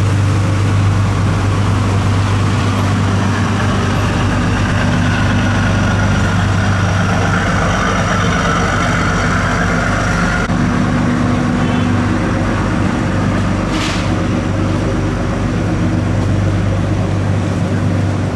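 Boat engine running steadily with a low drone. There is a brief hiss about three-quarters of the way through.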